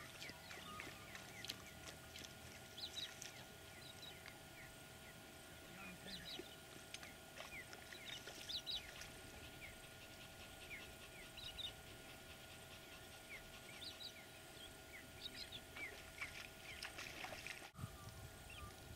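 Faint bird chirps and calls: many short, high notes scattered throughout.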